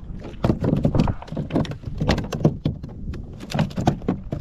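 A quick, uneven string of knocks, taps and clicks on a plastic fishing kayak while a just-landed trout that swallowed the bait deeply is handled and unhooked.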